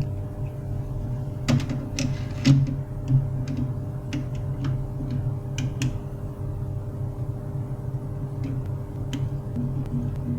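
HP LaserJet 401 laser printer running: a steady motor hum with a few sharp clicks and clacks from its mechanism about one and a half to three seconds in, then lighter ticking.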